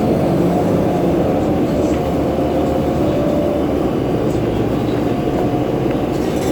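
Cabin noise aboard a 2011 New Flyer C40LF natural-gas bus: a steady drone and rumble with several humming tones, the bus's unusual fan sound among them.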